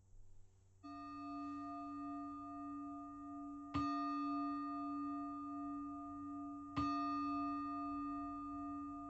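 Singing bowl struck three times, about three seconds apart: a soft first stroke about a second in, then two sharper strikes, each ringing on with a slow wavering in its tone. This is the bell that closes the meditation.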